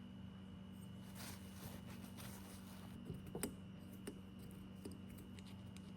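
Quiet workbench handling: a few faint clicks and light taps of metal parts and tools, clustered about three seconds in, over a steady low hum.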